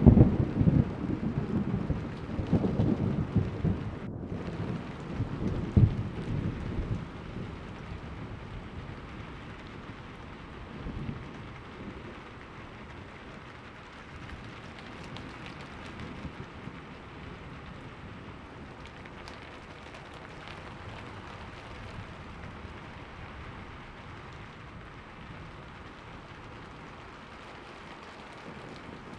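Thunder rumbling loudly at the start and dying away over about seven seconds, over rain falling steadily. The rain then carries on alone as an even hiss.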